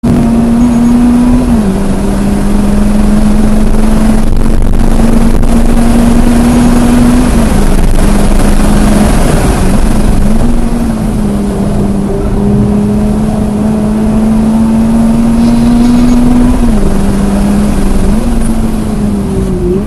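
Subaru BRZ's 2.4-litre flat-four engine running hard at high revs under track driving, heard from inside the car over wind and road noise. The engine note holds a steady high pitch, dipping and climbing again a few times.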